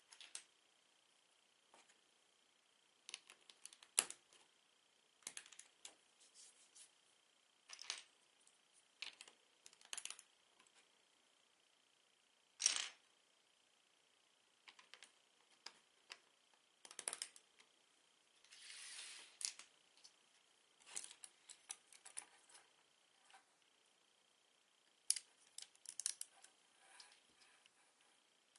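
Lego bricks being handled and pressed together: small hard plastic clicks and rattles in irregular clusters, with a short rustle of pieces being sorted about 19 seconds in.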